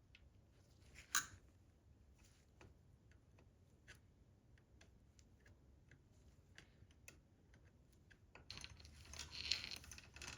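Quiet handling sounds of engine work: scattered light clicks and taps, one sharper click about a second in, and a stretch of scraping and rustling near the end.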